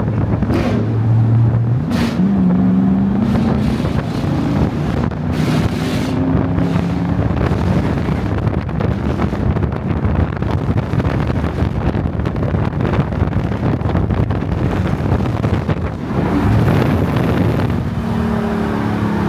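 A car engine running hard while driving, its pitch stepping up and down as the revs change, over heavy wind and road noise.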